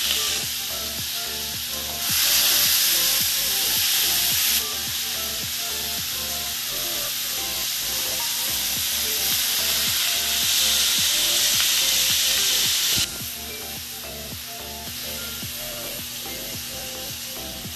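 Diced cuttlefish frying in a pan, sizzling steadily while a metal spoon stirs it. The sizzle swells and eases several times and drops off sharply about 13 seconds in.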